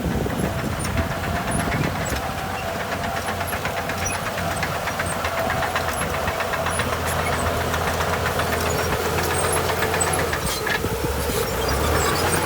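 Heavy diesel earthmoving machinery running steadily under load, with a continuous low engine drone and a dense, rapid metallic clatter.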